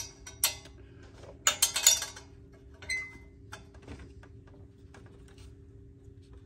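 Metal clinks and taps of a hand wrench and exhaust hardware, clustered in the first two seconds, with one ringing clink about three seconds in, then only small ticks.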